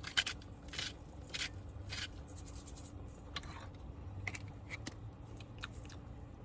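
Salt being added to a pot of food in four short, evenly spaced rasping strokes about half a second apart, followed by scattered light clicks of utensils.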